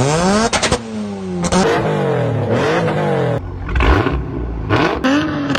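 Car engines revving hard, several quick rises and falls in pitch, cut together from different clips with abrupt changes between them.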